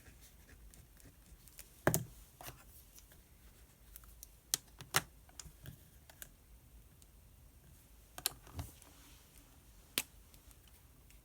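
Desk sounds of someone studying with pen and paper: a handful of separate sharp taps and clicks, the loudest about two seconds in, over faint room tone.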